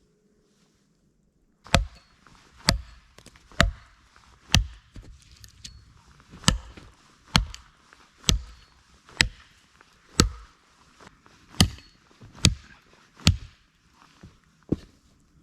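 Axe chopping: about thirteen sharp blows, roughly one a second, with a brief pause a few seconds in.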